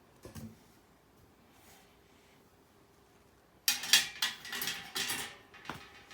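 Stainless steel fire pit and grill parts clanking and rattling against each other as they are handled and fitted together. A burst of metal clatter comes a little past halfway in, followed by one more clink.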